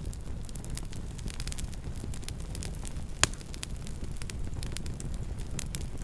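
Campfire crackling: many small irregular pops over a low steady rumble, with one sharper, louder pop a little past halfway.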